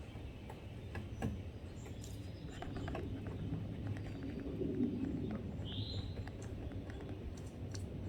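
Woodpeckers pecking at wood while foraging: scattered, irregular sharp taps rather than a steady drum roll, with one short high bird call about six seconds in.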